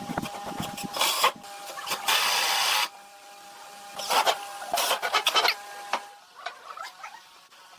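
Workshop tool working wood in short noisy bursts, the longest lasting just under a second, over a faint steady machine tone that stops about six seconds in; quieter scattered clicks follow.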